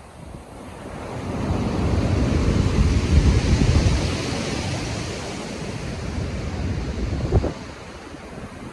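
Stormy sea surf: a large wave builds about a second in, breaks loudest around three to four seconds in, then washes back and fades near the end.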